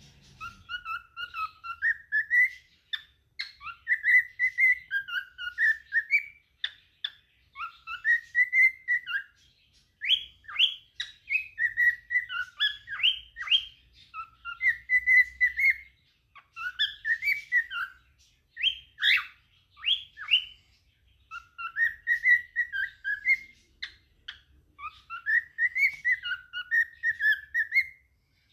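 Cockatiel singing: a run of whistled, warbling phrases that rise and fall in pitch, broken by short pauses.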